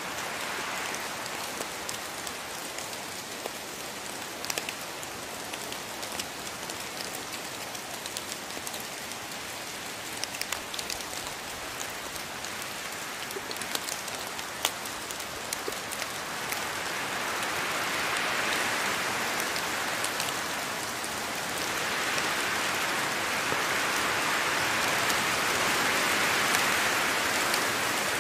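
Steady rain falling on rainforest foliage, a dense hiss with scattered sharp drop hits. The rain swells heavier in two waves over the second half.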